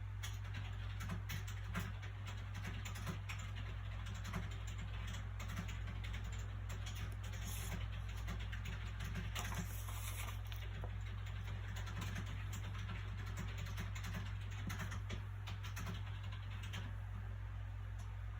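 Soft paper sounds from handling a book: many small clicks and crinkles, with a couple of short rustles near the middle, over a steady low hum.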